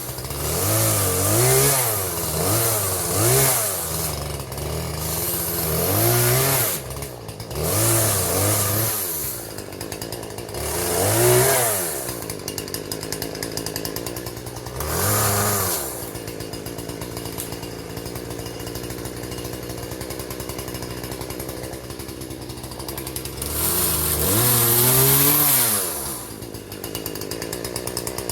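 Husqvarna 120 two-stroke chainsaw cutting limbs off a felled pine, revved up for a cut about seven times and dropping back to idle between cuts, with a long stretch of idling in the middle.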